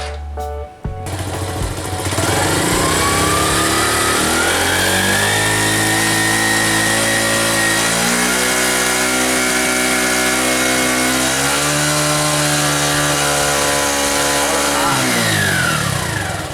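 TVS Sport's small single-cylinder four-stroke engine, freshly filled with Liqui Moly 10W-40 synthetic oil, running smoothly. About two seconds in its speed rises and holds, shifting pitch a couple of times, then drops back near the end.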